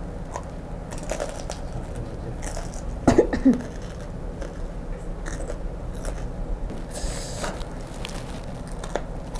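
Close-up crunchy biting and chewing of crispy fried grasshoppers, with scattered crackles through the chewing. A short, louder throaty vocal sound about three seconds in.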